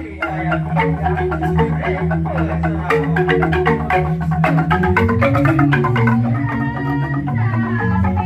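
Balinese jegog bamboo gamelan with tingklik bamboo xylophones playing an instrumental piece: fast, dense struck notes over deep held bass tones, with the bass moving to a higher note about five seconds in.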